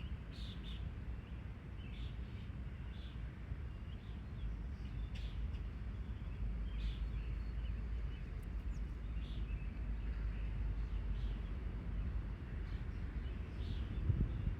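Small birds chirping now and then, short calls scattered over a steady low rumble.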